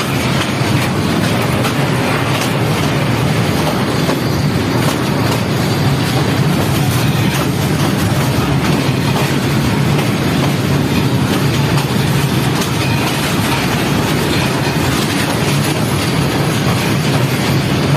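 Passenger train running steadily, heard from on board: a loud, even rumble of wheels on the rails.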